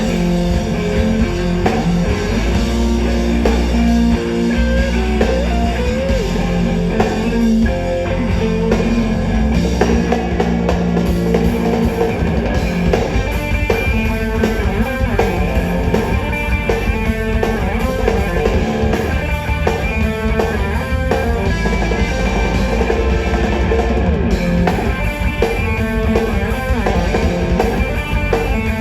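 Live rock band playing an instrumental passage: electric guitars and a drum kit, with no singing.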